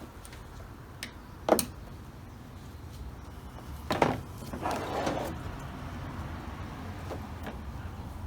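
Hand tools being handled and knocked against a hard surface while swapping tools: a few sharp clinks, the loudest about a second and a half in and another at four seconds, followed by a short rattle and a couple of faint ticks near the end, over a low steady hum.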